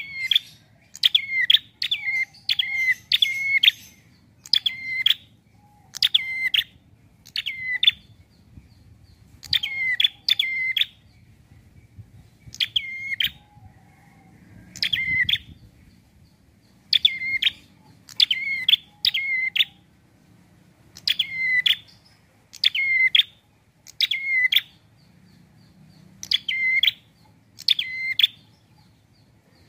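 Prenjak (prinia) calling: sharp, repeated chirps, some single and some in quick runs of two to four, with short pauses between.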